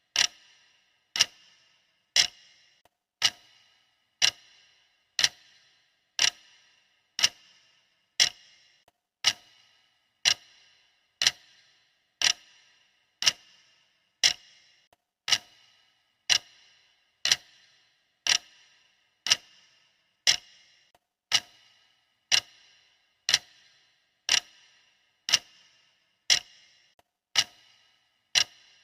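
Clock ticking at a steady one tick per second, each tick a sharp click with a brief metallic ring.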